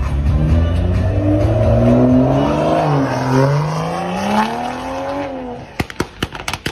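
A car engine accelerating hard: its pitch climbs, drops sharply about three seconds in, climbs again, then falls away near the end.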